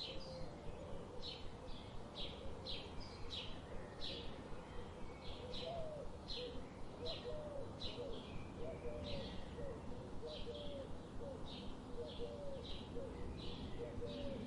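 Birds calling: a run of short, high chirps repeating about twice a second, with fainter, lower wavering notes from another bird underneath and a steady background hiss.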